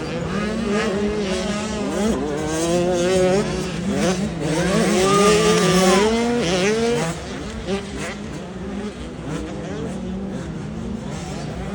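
Several motocross bikes' engines revving, their pitch rising and falling as they accelerate and shift, overlapping one another. The sound is busiest in the first half and settles to a lower, steadier drone after about seven seconds.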